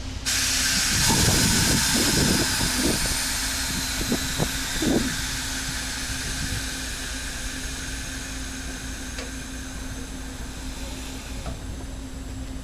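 Compressed air hissing out of a DR1A diesel railcar's pneumatic system: it starts suddenly, weakens slowly and stops near the end, over a steady low hum with a few low knocks early on.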